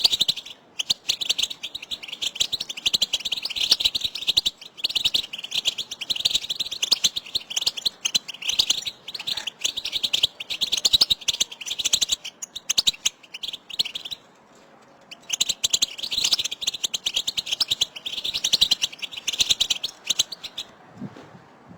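A group of European goldfinches chattering with rapid, high twittering calls: the 'batbata' call recording used to stir a caged goldfinch into song. The calls break off briefly about two-thirds of the way through and stop just before the end.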